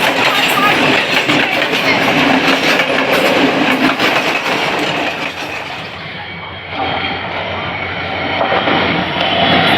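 A train running past close by, its wheels clattering over the rail joints. The noise dips briefly about six seconds in, then builds again.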